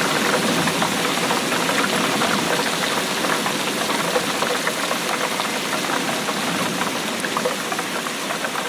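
Steady rainfall, an even hiss dotted with many small ticks of individual drops.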